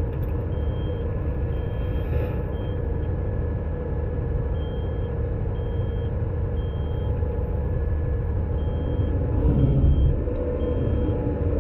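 Front-load garbage truck's engine running steadily, with short high-pitched beeps repeating about once a second and pausing twice. The engine grows louder briefly about ten seconds in.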